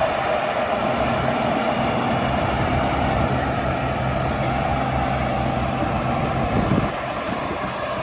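Heavy farm-machinery diesel engine running steadily, with a short louder swell about three-quarters of the way in, after which it settles slightly quieter.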